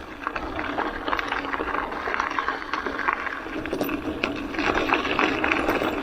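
Tyres of a Merida Big Trail hardtail mountain bike rolling over a rough gravel trail, a steady crunching hiss full of small clicks and rattles.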